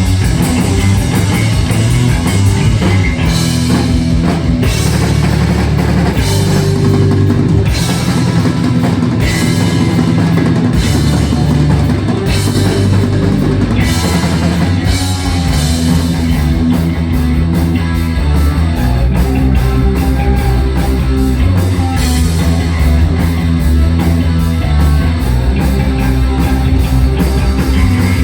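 Heavy metal band playing live: electric guitars, bass and drum kit at full volume, the drums settling into fast, even cymbal strokes about two thirds of the way through.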